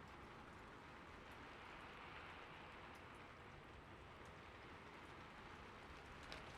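Faint, steady rain falling, with a few light drop ticks.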